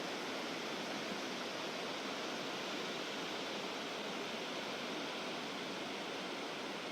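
Steady rush of a waterfall, an even roar of falling water with no change throughout.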